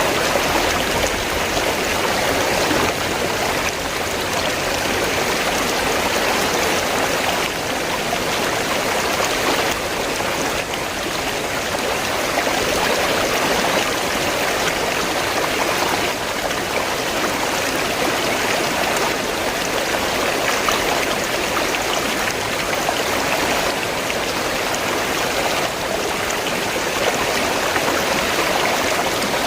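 River water flowing steadily, an unbroken wash of water noise that keeps an even level throughout.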